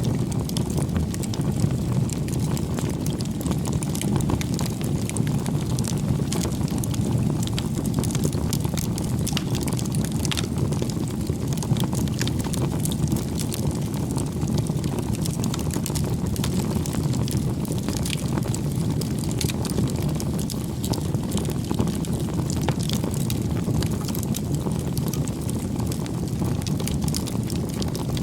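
Wood bonfire burning, with a steady low rush of flame and frequent sharp crackles and pops of burning wood.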